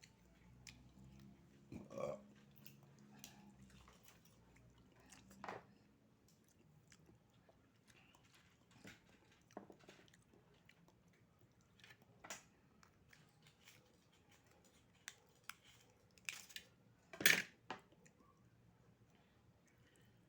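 Close-up eating of raw oysters: scattered wet chewing and slurping mouth sounds with small sharp clicks, the loudest about 17 seconds in.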